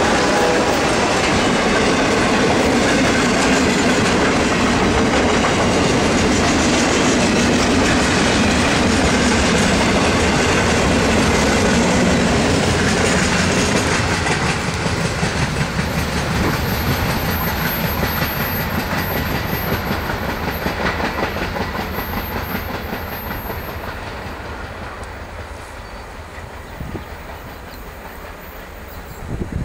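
A freight train's container flat wagons rolling past close by, their wheels clacking in a steady rhythm over the rail joints. From about halfway the sound fades steadily as the end of the train passes and draws away.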